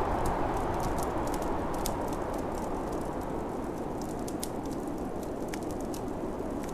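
Snowstorm wind blowing steadily, with a wood fire crackling over it in small scattered pops.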